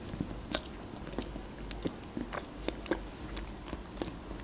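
Mouth chewing a bite of layered chocolate sponge cake with closed lips, close to the microphone: irregular soft wet clicks and smacks, several a second.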